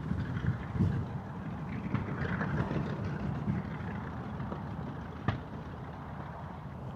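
A vehicle engine running steadily with a low rumble, and one sharp click about five seconds in.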